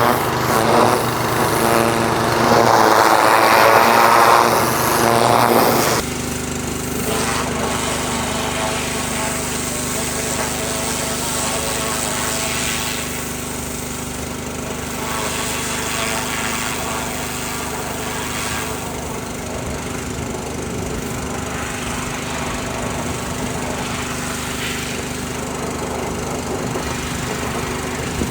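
Pressure washer's small engine running steadily. It is louder and rougher for about the first six seconds, then drops suddenly to a steadier, quieter hum.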